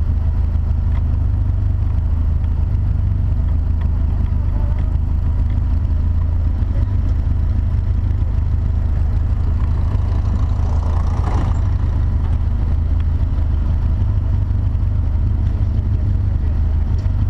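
Rhocar kit car's engine running at low speed as the car creeps along, heard close up from its bonnet. A brief louder, noisier swell comes a little after halfway.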